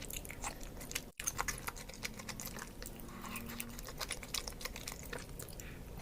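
Close-miked chewing of spicy baso aci (tapioca meatballs in broth), with rapid, irregular wet mouth clicks and smacks. There is a momentary dropout about a second in.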